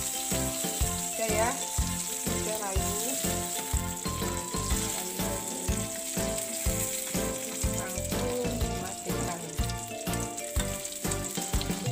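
Red chillies, shallots and garlic sizzling in a small wok of hot oil, stirred with a metal slotted ladle, fried just until wilted. Background music with a steady beat plays underneath.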